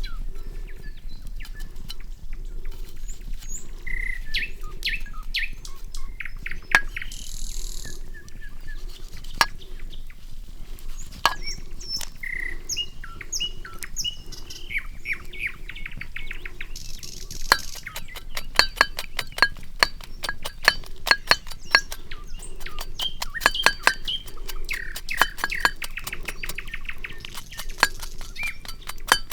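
Forest birds chirping and calling over the crackle of a campfire. The pops and snaps of the burning wood come only now and then at first, then fast and many from a little past halfway.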